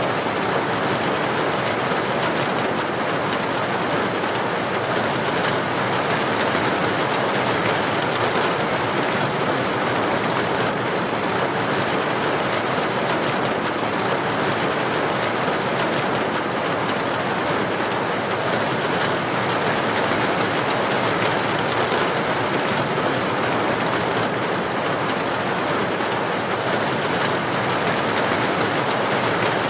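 Heavy rain falling steadily onto a street: a dense, even hiss that does not let up.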